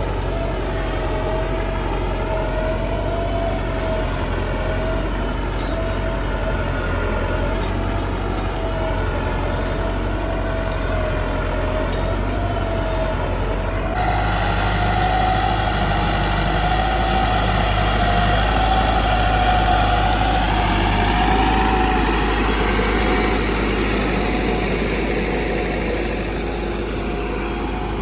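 Tractor engine running steadily with a slightly wavering pitch. About halfway through it changes abruptly to a different, somewhat louder engine sound.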